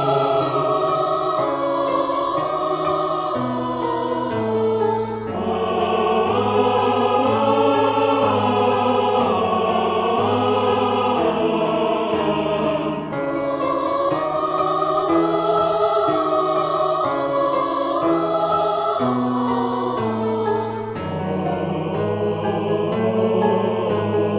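Mixed choir singing sustained chords in several parts, phrase after phrase, with brief breaths between phrases.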